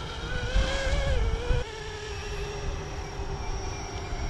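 Electric 450-size scale RC helicopter with a four-blade main rotor, flying with a steady motor and rotor whine; the pitch rises slightly, then drops about one and a half seconds in. A low rumble is loudest in the first half.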